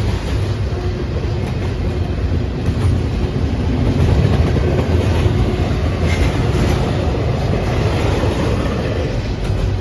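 Long CSX intermodal freight train rolling past, a loud steady rumble of wheels on rail.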